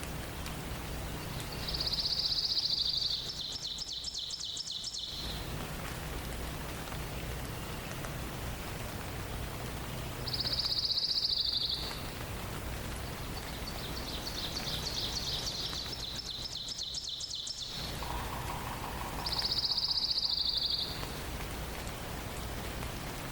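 A songbird sings four high, trilled phrases, each lasting a second or two. They stand out over a steady background hiss.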